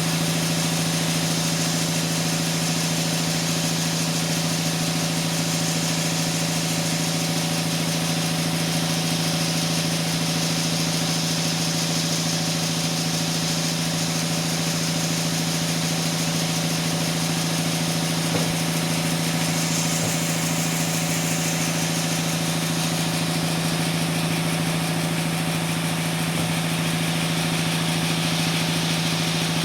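Sawmill machinery running steadily with a constant, even hum and a hiss over it, with no sign of a change in load.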